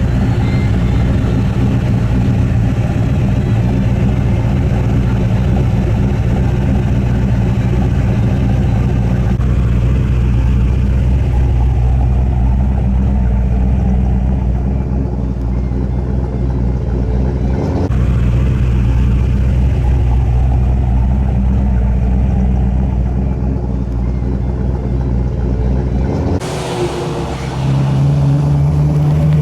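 Car engine running at low speed with a steady, deep rumble. The sound shifts abruptly about two-thirds of the way through and again near the end.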